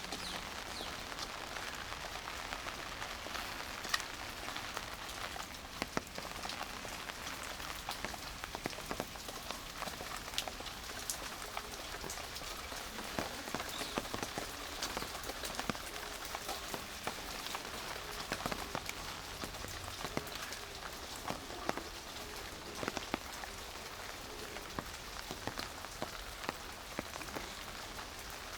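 Steady rain with many separate drops ticking sharply on nearby surfaces.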